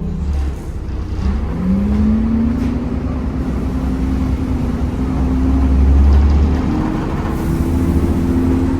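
Temsa Avenue LF 12 city bus's DAF diesel engine and ZF automatic gearbox pulling the bus along under a low rumble, with a whine that rises in pitch about a second and a half in, holds steady, then climbs again near the end.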